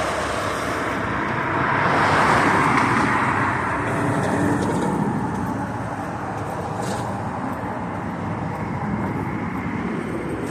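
Street traffic: cars passing, one swelling louder about two seconds in and fading away.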